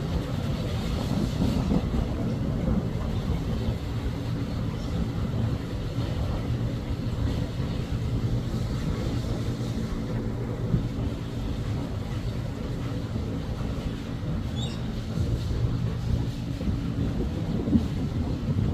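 A steady, low engine-like drone with rumbling noise underneath.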